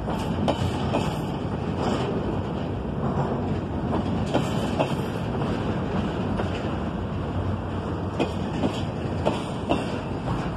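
Freight train's double-stack intermodal well cars rolling past: a steady rumble of wheels on rail, with sharp wheel clicks at uneven intervals.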